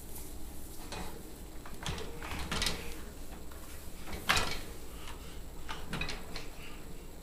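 Open dishwasher's rack and dishes knocked and rattled by a baby's hands: a few scattered knocks and clatters, the loudest about four seconds in.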